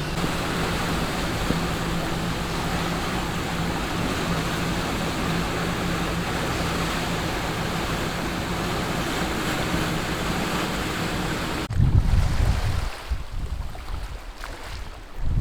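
A motor yacht under way: its engine hums steadily beneath the rush of water and wind. About twelve seconds in the sound changes abruptly to uneven gusts of wind buffeting the microphone.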